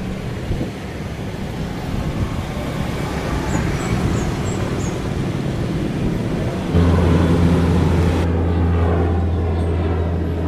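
Cessna 208B Grand Caravan's single turboprop engine and propeller, a steady drone with a rumble. About seven seconds in, a stronger steady low hum joins it and the sound grows a little louder.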